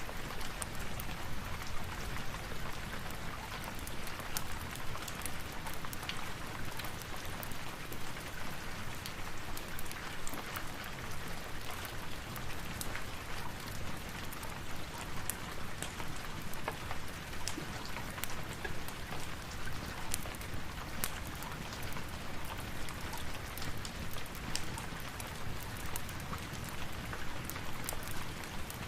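Steady rain falling, with many scattered sharp ticks and pops throughout.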